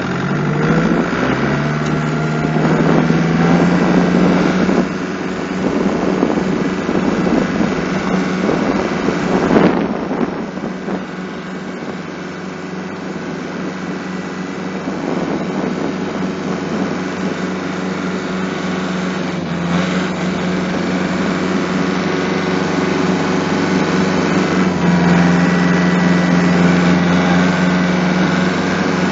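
Kubota tractor engine running steadily, its pitch rising briefly at the start and its note getting stronger near the end.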